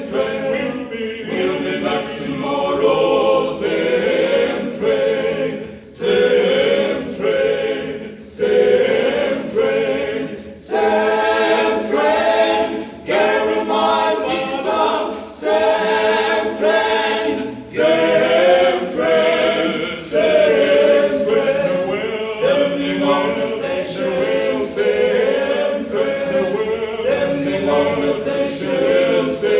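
Southern gospel male vocal quartet singing in harmony, phrase after phrase with short breaks between them.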